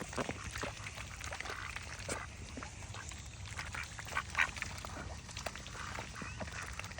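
A group of ducks quacking and calling in many short, overlapping calls, the loudest about four seconds in, over a steady low hum.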